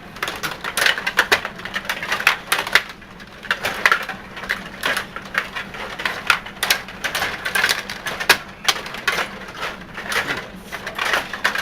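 Rapid, irregular plastic clicking and clacking of a Stiga table hockey game in play: players' rods being pushed and spun, the plastic figures striking the puck and the puck knocking off the boards.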